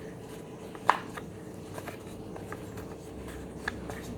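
A wooden puzzle box and its plastic sliding cover being handled: light taps and scrapes, with one sharp click about a second in.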